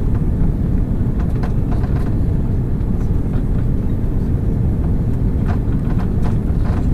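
Airbus A330 passenger cabin during the landing: a loud, steady low rumble of engine and airflow noise, with faint scattered rattles from the cabin fittings.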